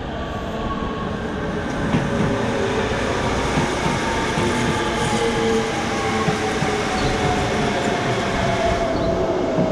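Tobu 100 series Spacia limited express electric train pulling into the platform and braking: a steady rumble of wheels on rails, with a whine that slides slowly down in pitch as the train slows.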